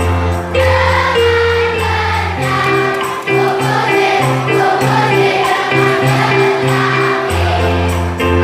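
A children's choir singing a song over a backing track with a bass line and a steady beat.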